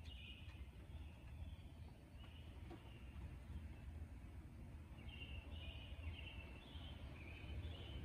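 A bird calling faintly outdoors in series of short, high notes, at the start and again from about five seconds in, over a low steady background rumble.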